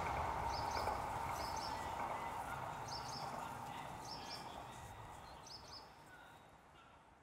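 A bird calling with short, repeated chirps every second or two over a steady outdoor background hum. The whole sound fades out toward the end.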